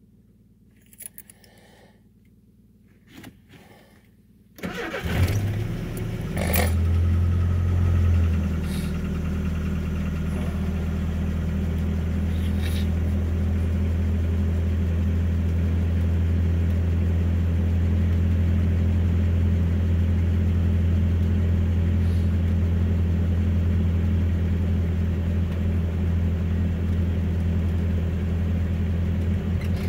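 A vehicle's engine cold-started: after a few faint clicks, it cranks briefly about four and a half seconds in and catches at once, runs a little harder for a few seconds, then settles into a steady idle.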